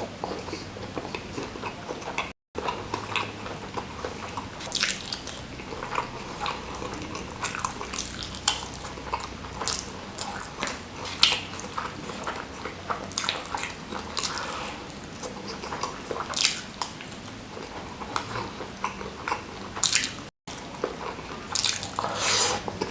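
Close-up chewing and mouth smacks of a person eating rice with salted squid sambal, coming as irregular clicks, with two brief gaps of silence.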